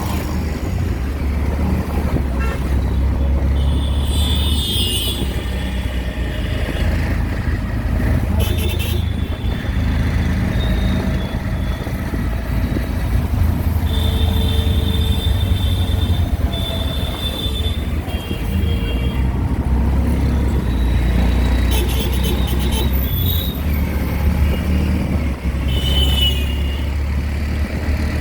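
Auto-rickshaw running through street traffic, a steady low engine drone, with vehicle horns honking again and again, some held for a second or two.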